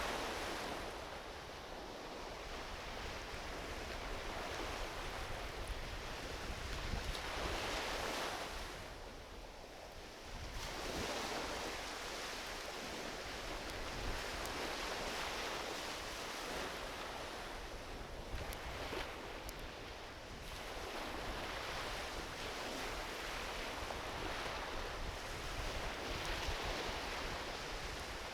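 Small ocean waves washing onto a beach, the surf swelling and easing every several seconds, with a light wind rumble on the microphone and a few faint crackles from a driftwood campfire.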